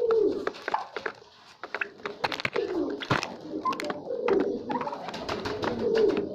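Pigeons cooing, low coos repeating and overlapping, with many sharp clicks and taps among them. The calls drop away briefly about a second in, then resume.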